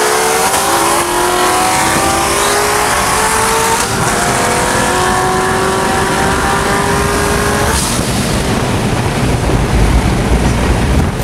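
High-horsepower street cars at full throttle in a highway roll race. The engine note rises through the gears with upshifts about one and four seconds in, then the throttle lifts near eight seconds and steady wind and road roar remain.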